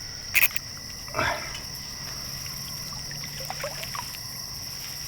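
Steady chorus of insects, a constant high-pitched trill, with two short sharp noises about half a second and a second in.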